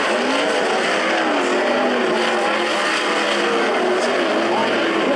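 Several 360 sprint car V8 engines running together, their pitches rising and falling against each other as the cars circle the track.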